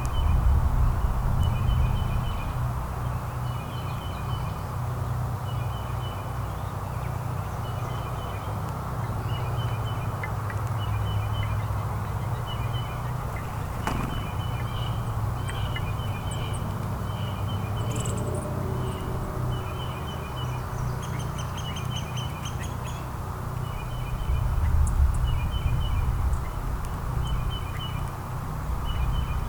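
An animal's short double call repeated at an even pace, about once every second and a half, with a few high thin bird chirps in between, over a steady low rumble.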